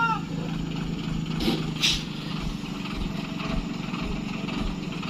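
Heavy truck's diesel engine running steadily, with two short hisses about one and a half and two seconds in.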